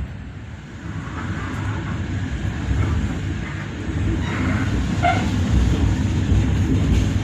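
Passenger train running on the rails, a steady low rumble that grows louder, with a few brief squeaks about four to five seconds in.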